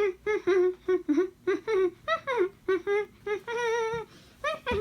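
A high-pitched voice humming a tune without words in short notes, with one longer, wavering held note near the end.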